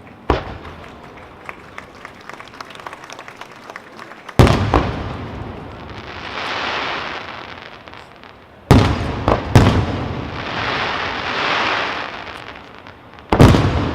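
Aerial fireworks shells bursting: a sharp bang, a run of small crackling pops, then three heavy bursts about four seconds apart, each followed by a long hiss that swells and fades as the stars burn out.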